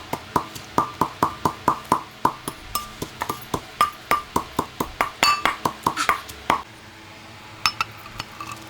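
Knife chopping on a wooden cutting board: sharp, even knocks about three a second that stop about six and a half seconds in, then two more chops near the end.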